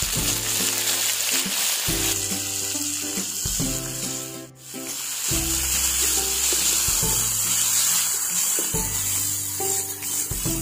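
Chopped tomatoes, garlic and shallots sizzling in hot oil in a wok as they are stirred with a plastic spatula. The sizzle drops briefly about halfway, and background music with a repeating bass line plays throughout.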